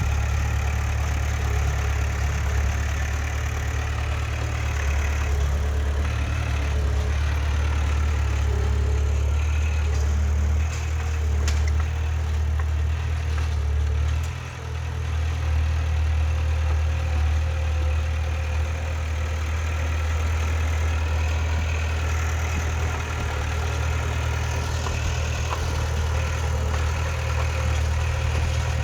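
Heavy diesel earthmoving machinery running steadily with a deep rumble, its sound dipping briefly about halfway through.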